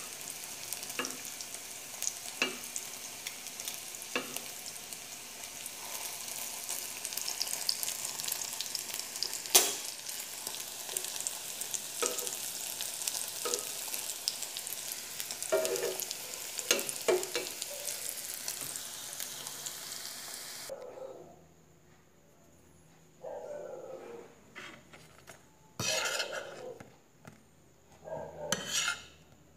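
Sliced hot dog sausages frying in a pan: a steady sizzle, with a metal spoon stirring and clinking against the pan every second or two. About two-thirds of the way through the sizzle cuts off suddenly, leaving a quiet stretch with scattered short knocks and scrapes.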